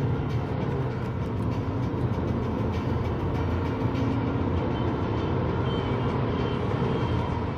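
Car engine pulling under full-throttle acceleration during a 0-100 km/h run, a steady, fairly loud engine note that shifts slowly in pitch.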